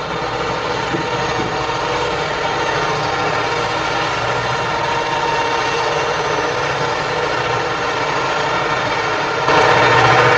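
Heavy machinery running with a steady engine noise, jumping suddenly louder near the end.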